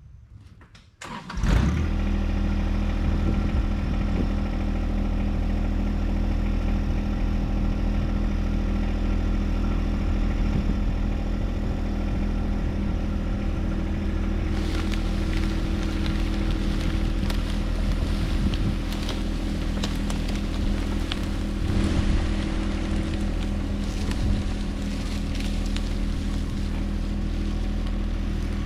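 John Deere 1025R compact tractor's three-cylinder diesel engine starting about a second and a half in, then running steadily. Through the second half there are added scrapes and knocks.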